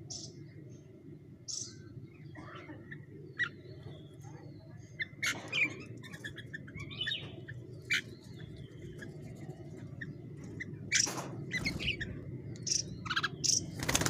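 Small songbirds chirping and calling in short, high notes scattered throughout, with several sudden louder bursts, the strongest about five and a half and eleven seconds in, over a steady low background hum.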